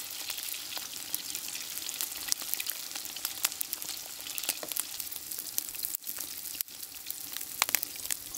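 Frikadellen (meatballs) frying in hot fat in a pot: a steady sizzle with many fine crackles and spits.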